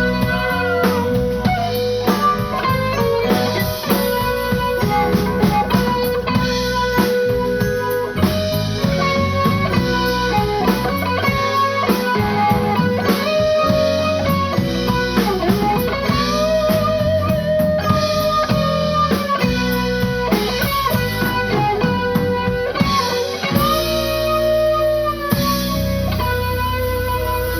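Live blues-rock band playing: an electric guitar lead with bent, sustained notes over bass and drums.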